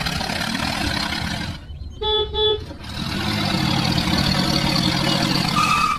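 Vehicle engine running with a low steady hum. About two seconds in it cuts out briefly, and a short horn toot sounds in the gap before the engine hum resumes.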